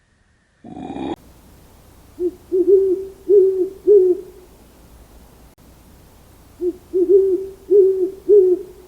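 An owl hooting: two phrases of about five low hoots each, a few seconds apart. A brief noise comes just under a second in.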